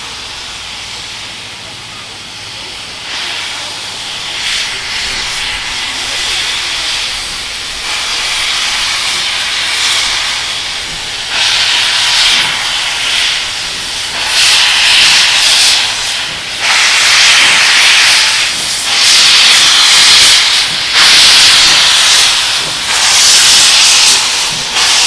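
Steam locomotive hissing steam in repeated surges every second or two, growing louder as it draws closer.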